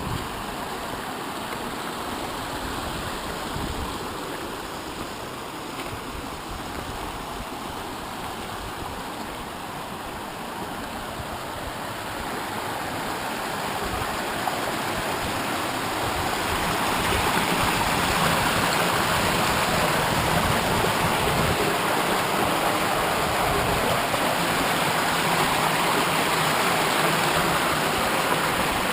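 Rushing water of the stream and waterfall inside the Rauðfeldsgjá ravine, a steady noisy rush that grows louder about halfway through and then holds steady.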